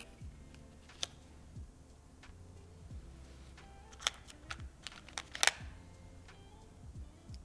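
Sharp light clicks and clacks of small board-game components being handled: one click about a second in, then a quick cluster of clicks about four to five and a half seconds in.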